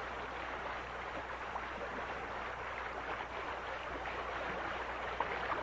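Steady rush of flowing water at a dam, an even hiss with no breaks.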